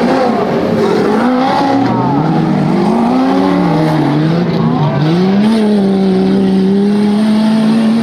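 Off-road 4x4 engine revving up and down under load, dipping briefly, then held at steady high revs for the last few seconds.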